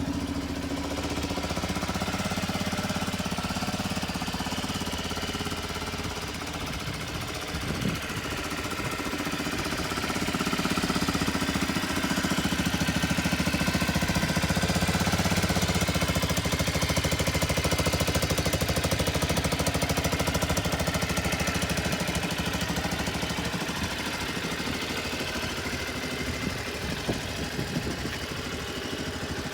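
Suzuki Skywave 250 (CJ43A) scooter's single-cylinder engine running steadily. It gets louder about a third of the way in and eases back down over the last third.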